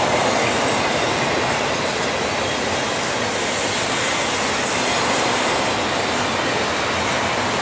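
Double-stack intermodal freight train rolling past, its container well cars making a steady noise of steel wheels on rail.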